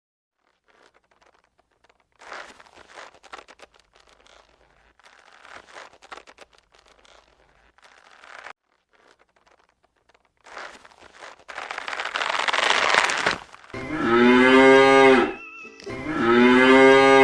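A cow mooing twice near the end, two long arched calls, after a stretch of faint crackling and a rising hiss.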